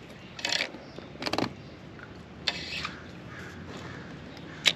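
Four short scraping, rubbing noises a second or so apart, the last a sharp click near the end, typical of handling gear on the kayak.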